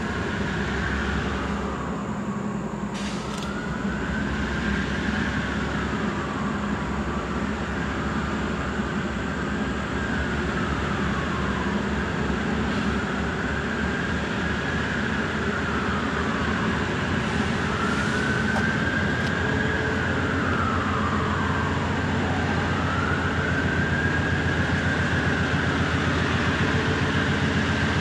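A train running on the rails, a steady low rumble that grows louder and more rhythmic toward the end. Over it, a siren wails, rising and falling about every five seconds.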